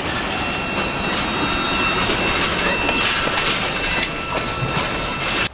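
Freight train cars rolling past with wheel clatter and a steady high-pitched squeal made of several thin tones, cutting off suddenly at the end.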